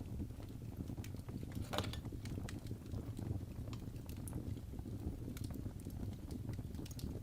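Wood fire burning in a fireplace: a steady low rumble of flames with scattered sharp crackles and pops, one louder pop about two seconds in.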